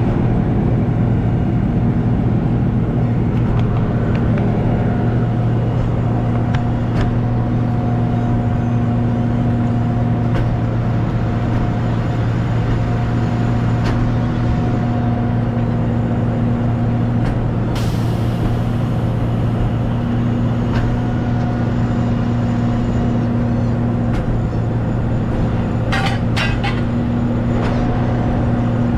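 Truck on the move: a steady engine and road drone with a constant low hum, and a few short clicks near the end.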